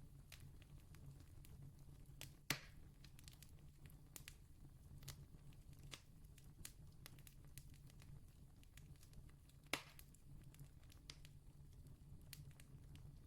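Campfire crackling faintly: scattered small ticks and snaps of burning wood, with a louder pop about two and a half seconds in and another about ten seconds in, over a steady low hum.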